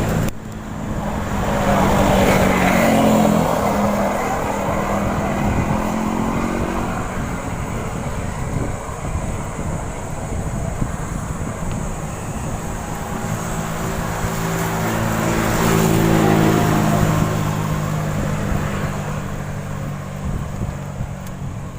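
Road traffic: motor vehicles passing close by with a steady low rumble, one loud pass about two to three seconds in and another near sixteen seconds, each engine note swelling and then fading.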